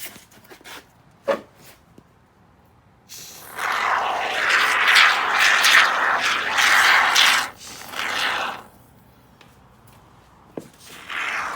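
Expanding spray foam hissing out of its can as gaps in a kayak hull are filled: one long spray of about five seconds with a brief break, then a short spray near the end. A sharp click about a second in.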